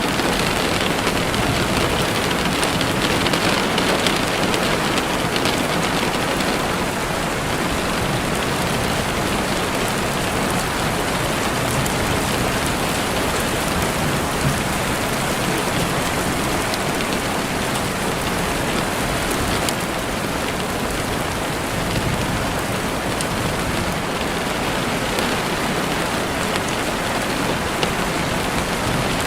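Heavy rain falling steadily on a window, a dense even patter with faint individual drop ticks.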